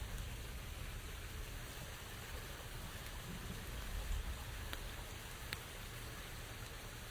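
Rain falling steadily, with a couple of single sharp drop ticks standing out near the middle.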